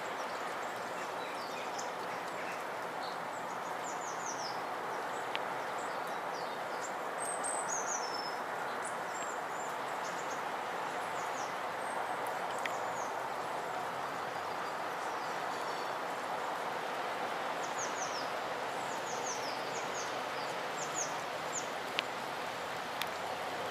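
Small birds giving short, high, falling chirps in scattered clusters, busiest about a fifth of the way in and again in the last third, over a steady outdoor background noise, with a few sharp ticks near the end.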